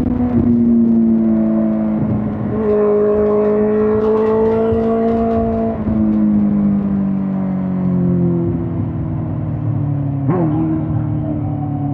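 2005 Suzuki GSX-R1000 K5's inline-four engine on the move. The engine pitch rises gently for a few seconds, then eases off and falls slowly as the bike slows. About ten seconds in there is a brief sharp throttle blip.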